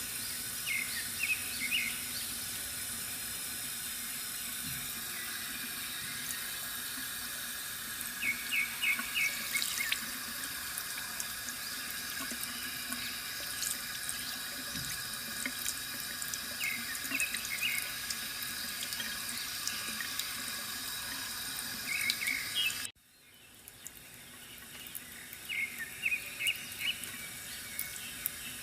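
Bamboo water fountain trickling steadily, with a bird chirping in quick short runs every few seconds. About 23 seconds in, the sound cuts out suddenly and then fades back in.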